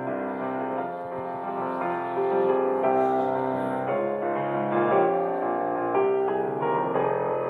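Soft background piano music, slow held chords and notes.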